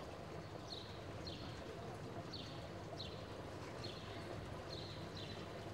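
A small bird chirping repeatedly, short falling chirps about one to two a second, over a steady low background hum of open-air ambience.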